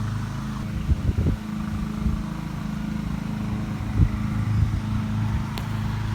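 A motor running with a steady low hum, with a few short bumps of handling noise about a second in and again about four seconds in.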